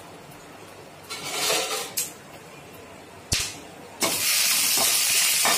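Whole dried red chillies and spices frying in hot oil in a kadai: a faint sizzle, a sharp knock just after three seconds in, then a loud, steady sizzle that starts suddenly about four seconds in as a spoon goes into the pan.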